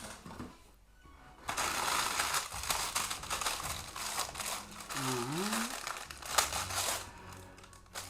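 Plastic and paper packaging crinkling in rustling bursts as action-figure accessories are unwrapped by hand. There is a short rising tone about five seconds in.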